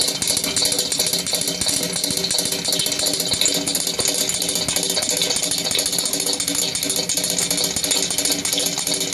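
Sound picked up by a microphone in a borehole: a steady, rapid mechanical rattling or tapping over a low hum, which the recorders present as the sound of tunnel digging underground.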